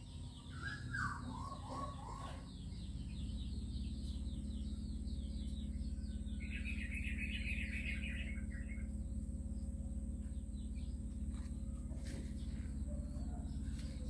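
Small birds chirping: a rapid run of short high notes at the start, a lower stepped call in the first two seconds, and a dense cluster of chirps in the middle. A steady low hum runs underneath.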